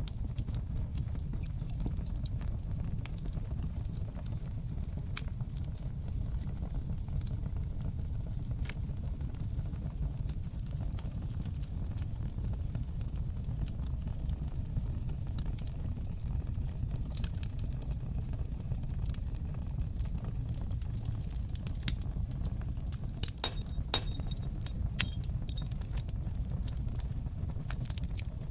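Wood fire burning in a fireplace: a steady low rumble of flames with scattered sharp crackles and pops, coming thicker a little before the end, with one louder pop.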